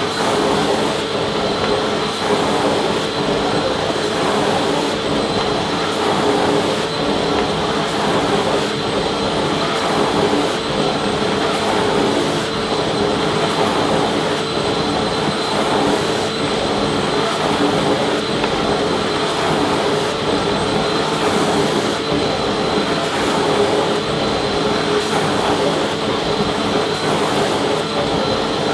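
Vacuum cleaner running steadily: an even rushing whoosh of air with a steady motor hum, unchanging throughout.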